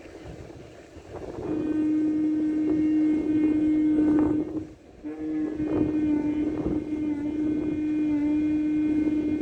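A horn blown in two long, steady notes on the same pitch. The first starts about one and a half seconds in and lasts about three seconds; after a brief break, the second is held to the end.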